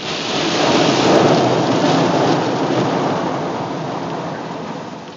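A heavy torrent of rainwater pouring off an overpass and drumming onto a car as it drives through the cascade. The noise swells quickly, stays loud for a few seconds, then fades as the car comes out from under it.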